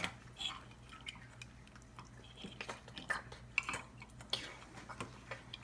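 Light, scattered clicks and taps of small objects being handled: a drinking-bird toy being set up by hand, with a few brief knocks against hard surfaces.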